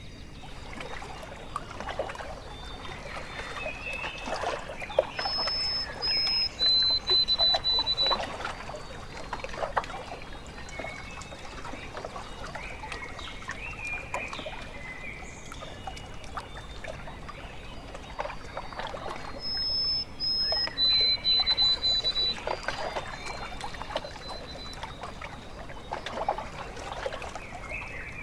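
Small waves lapping and splashing at a lake shore. A bird sings a clear whistled phrase twice, about 14 seconds apart, each time a high note followed by a lower, longer-held one.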